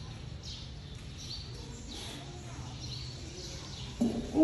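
A bird calling with a short, high chirp repeated about once a second over a low steady hum. A louder sound cuts in near the end.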